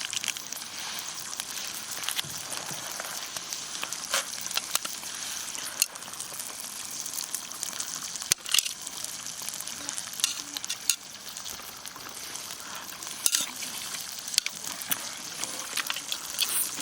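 Steak sizzling on a hot lava stone over a wood fire: a steady hiss with scattered sharp pops.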